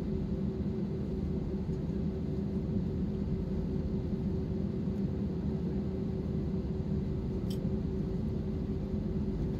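Steady low rumble with a constant hum inside an Airbus A320 cabin, from the engines and air systems on the ground after landing.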